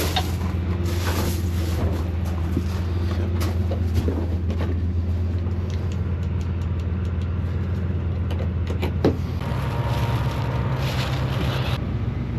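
Truck engine idling steadily, with scattered light knocks over it. A sharp knock comes about nine seconds in, after which the engine note rises a little and a rushing noise joins it for a couple of seconds.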